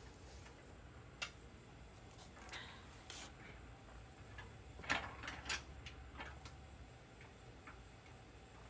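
Faint, scattered light clicks and taps of parts and tools being handled, with a short cluster about five seconds in, over a low hum.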